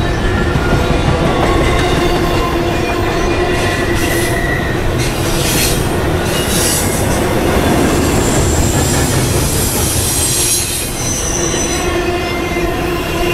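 CSX double-stack intermodal freight train's well cars rolling past on steel rails: a loud, steady wheel rumble with thin high-pitched wheel squeals that come and go.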